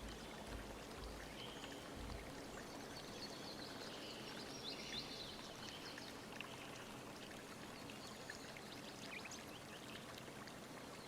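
Faint scratching of a charcoal pencil on drawing paper: short, irregular strokes over a steady low hiss.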